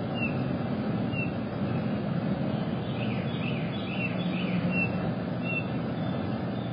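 Small birds chirping: short high chirps about once a second, with a quick run of slurred notes around the middle. Underneath is a steady low rumble.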